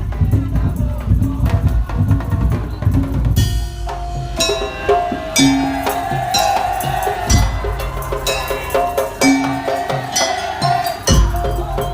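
Madurese daul ensemble playing: dense heavy drumming at first, then about four seconds in the drums thin out and a melody line comes in over lighter percussion. A heavy drum stroke lands near the end.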